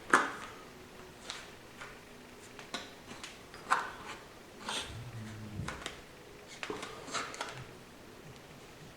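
Scattered light clicks and taps from a transmission lip seal being worked into place with a lip-seal installing tool, with a short low hum about five seconds in.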